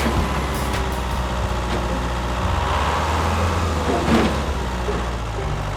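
A vehicle engine running steadily with a low hum, with a brief louder moment about four seconds in.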